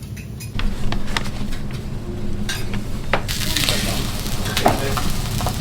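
Steak sizzling on a hot teppanyaki griddle, with a few sharp clicks of metal utensils on the plate; the sizzling grows louder about three seconds in.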